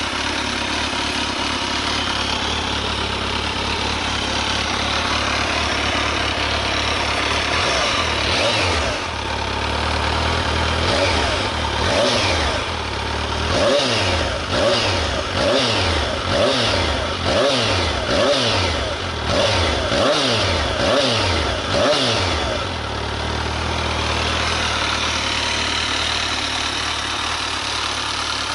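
Kawasaki ZRX1200 DAEG's inline-four engine idling, then blipped through about a dozen quick revs, roughly one a second, from about 8 to 22 seconds in, before settling back to idle. This is the bike's exhaust note.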